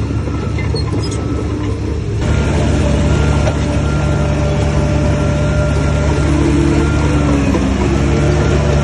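Heavy earthmoving machine engine running steadily under load, growing louder about two seconds in.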